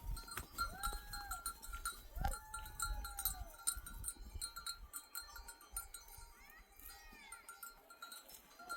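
Flock of sheep on the move: a few bleats over the constant clinking of their neck bells.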